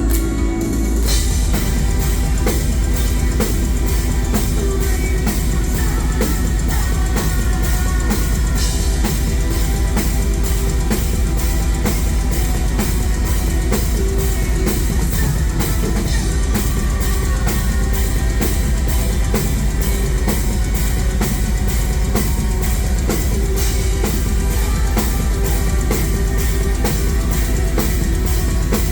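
Live metal band playing an instrumental passage with no vocals: fast, steady drumming with bass drum and cymbals driving the full band.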